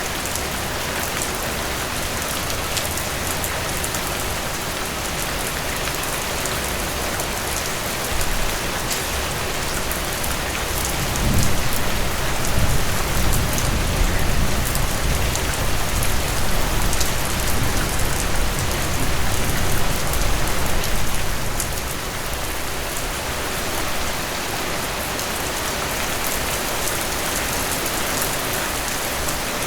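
Steady heavy rain falling on a surface, with scattered individual drops standing out. A deeper low rumble swells in about a third of the way through and fades out about two-thirds in.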